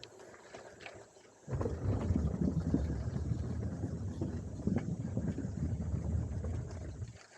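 Bicycle rolling over a rough surface: a loud rattling rumble from the tyres and frame starts suddenly about a second and a half in and stops just before the end.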